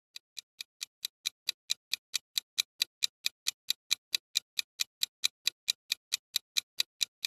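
Rapid, evenly spaced mechanical ticking, about six or seven clicks a second, fading in over the first couple of seconds and then holding steady.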